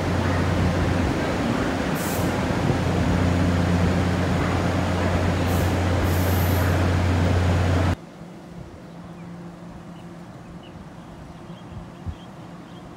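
Tze-Chiang express train standing at the platform: a steady low machinery hum with a few short high-pitched hisses. About two-thirds in, the sound cuts abruptly to a much quieter, faint station background.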